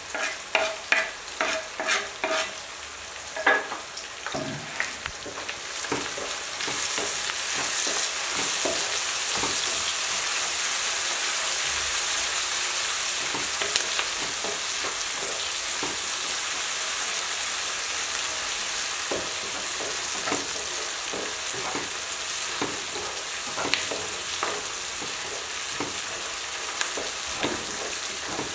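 Eggplant slices, onion and tomato frying in oil in a nonstick wok as garlic and curry leaves go in. A run of light wooden-spatula taps comes in the first few seconds, then a steady sizzle that grows louder about six seconds in, with small knocks and scrapes from the wooden spatula stirring.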